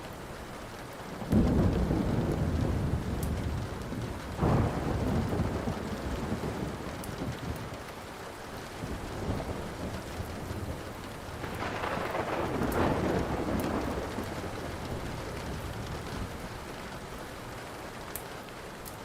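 Thunder rumbling over steady rain: a sudden deep clap about a second in, a second one a few seconds later, and a longer roll around the middle. Faint sharp crackles of a wood fire are scattered through it.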